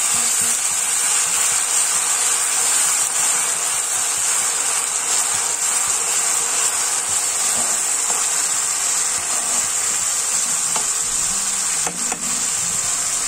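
Onion, garlic and ginger paste frying in hot oil with whole spices in a kadai, a steady sizzle as a metal spoon stirs it round the pan. The paste is being sautéed at the start of a curry masala.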